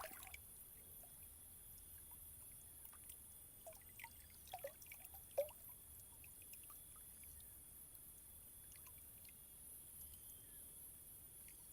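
Near silence: a faint steady high hiss with a few small clicks and rustles about four to five and a half seconds in.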